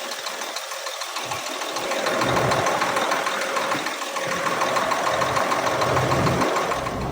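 Cummins M11 diesel engine of a 1998 Freightliner dump truck running, growing louder and fuller about two seconds in.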